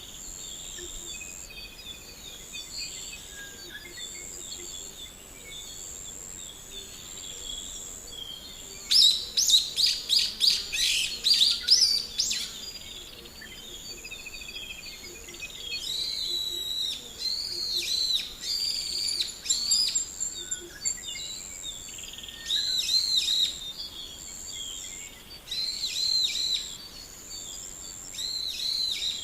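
Wild forest birds calling and singing. There is a loud burst of rapid repeated notes about nine seconds in, lasting some three seconds, then shorter phrases of curving whistled notes that come back several times. Under them runs a steady high-pitched buzz that breaks off now and then.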